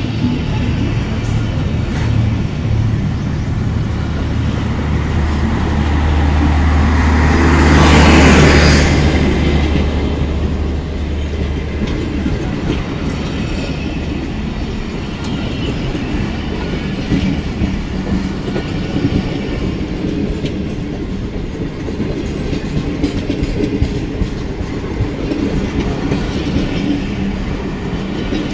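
Passenger coaches of a departing train rolling past, wheels clicking over the rail joints. A louder swell builds to a peak about eight seconds in, over a low steady hum that fades out after about twelve seconds.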